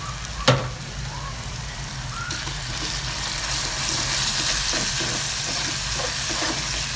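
Crispy minced garlic and soy sauce sizzling in hot oil in a steel pan, stirred with a metal spoon. A single sharp knock sounds about half a second in, and the sizzle grows louder from about two seconds in.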